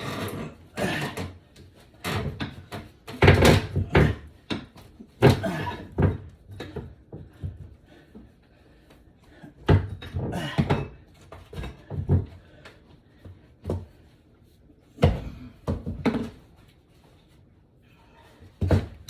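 Irregular knocks, bangs and cracks of old layered flooring being pried up and broken out with a flat bar and hammer, coming in bunches with short pauses between.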